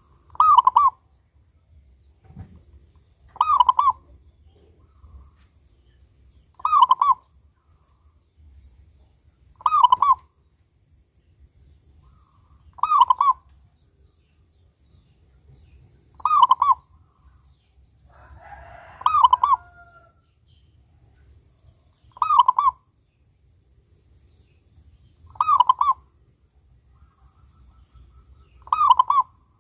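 Zebra dove (perkutut) singing its short coo phrase, repeated ten times at an even pace of about one every three seconds. A fainter second bird's call overlaps one phrase about two-thirds of the way through.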